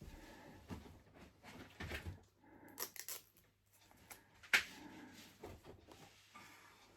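Quiet handling noises: scattered rustles and light knocks from a label and a plastic enclosure being handled, with one sharper click about four and a half seconds in.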